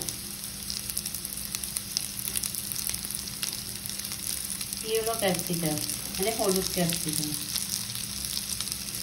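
Chopped onion and red capsicum frying in oil in a kadai: a steady sizzle with crackling, and stirring in the pan.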